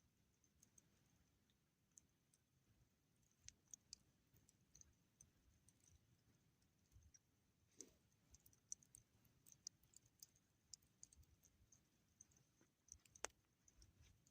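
Near silence with faint, irregular small clicks scattered through it, the sharpest about eight and thirteen seconds in.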